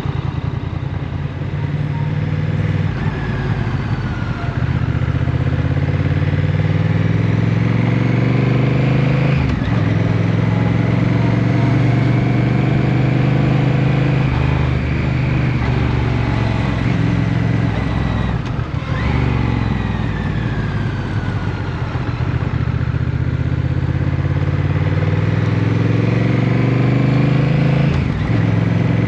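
Motorcycle engine under way, its note climbing slowly and then dropping sharply three times as the rider changes gear.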